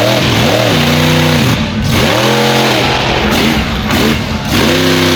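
Monster truck engine revving hard in repeated bursts, its pitch climbing and falling again four or five times, with the highest rev about halfway through, over a steady hiss of noise.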